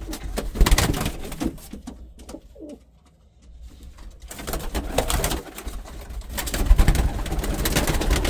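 Pigeons cooing in a small enclosed loft, with three loud bursts of rustling noise.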